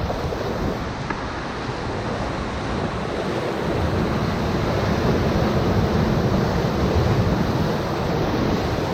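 Ocoee River whitewater rushing and splashing around a raft as it runs a rapid: a steady, loud rush that swells slightly about halfway through, with some wind on the microphone.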